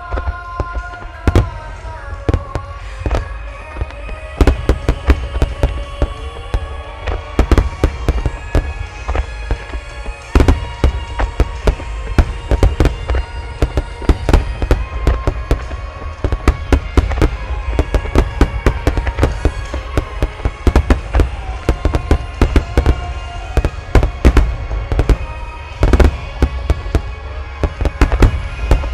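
A wide barrage of aerial fireworks shells bursting in rapid succession: a dense, continuous run of sharp cracks and deep booms, with music underneath.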